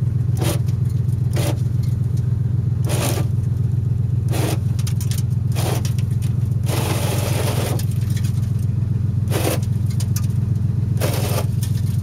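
Dodge Ram truck engine idling steadily, with about nine short scraping strokes against the iced-over windshield and one longer scrape near the middle.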